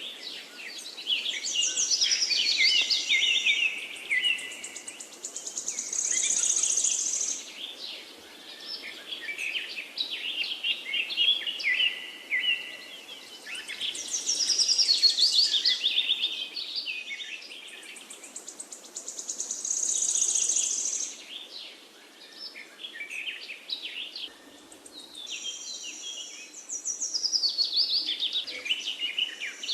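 Songbirds singing: phrases of rapid chirps and short whistled glides that come every few seconds, some with a held high note about a second long.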